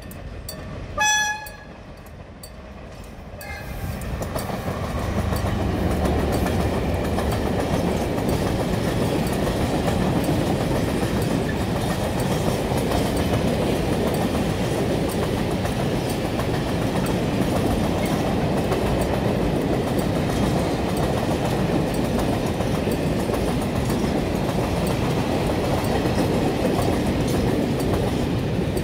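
A locomotive horn sounds a short blast about a second in. From about four seconds in, the freight train passes with a steady rumble of wheels on the rails.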